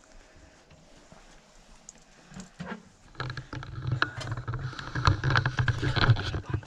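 Footsteps and rustling close to the microphone, a quick run of crunching, clicking steps that starts about three seconds in over a low rumble of handling noise.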